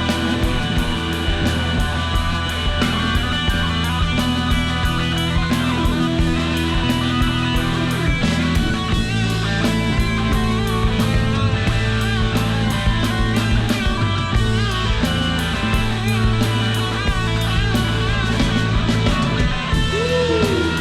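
A rock band playing live in an instrumental passage, with electric guitars, bass and a drum kit keeping a steady beat. A guitar bends a note near the end.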